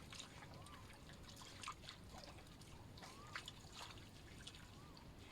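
Faint water trickling and dripping, with small splashy clicks, and a short rising-then-falling chirp repeating every second or two.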